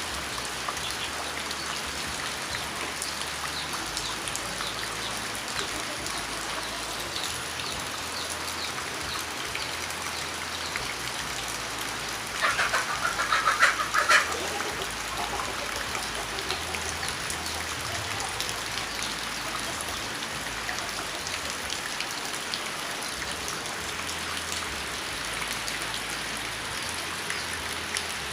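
Steady rain falling and pattering on a surface. A little before the middle, a bird gives a loud, quick run of calls lasting under two seconds.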